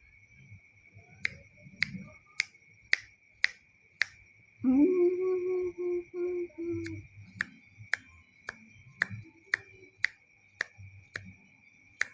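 An albino puter (Barbary dove) coos once, about halfway through: a low held note that rises at first, then stays level, broken into short pulses, lasting about two seconds. Around it come sharp, regular clicks about two a second, over a steady high whine.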